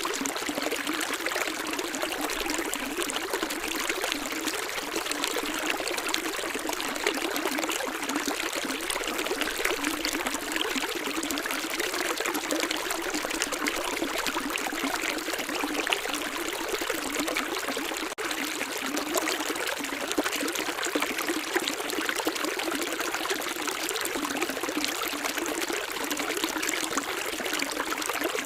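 Steady running water, trickling and splashing continuously like a small stream, with no low rumble. A momentary dropout comes about eighteen seconds in.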